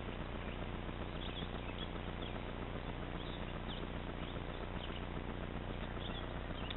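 Short, faint bird chirps here and there over a steady background hiss and low hum.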